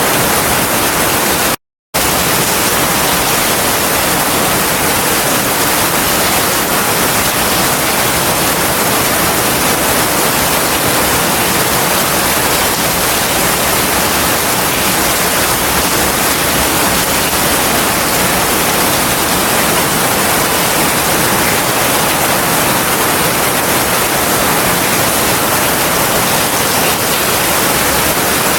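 Heavy rain falling as a steady, even hiss with no thunder. The sound cuts out completely for a split second near the start, then resumes unchanged.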